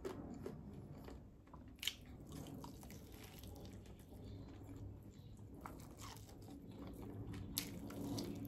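Close-up mouth sounds of someone biting and chewing saucy hot chicken wings: scattered small wet clicks and smacks, with a couple of sharper clicks about two seconds in and near the end, over a faint steady low hum.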